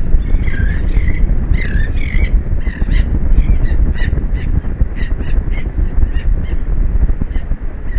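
Seabirds calling in a rapid series of short calls, about two or three a second, over a heavy low rumble of wind on the microphone.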